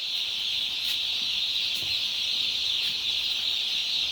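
A flock of broiler chickens calling all at once: a dense, steady, high-pitched chorus with no single call standing out.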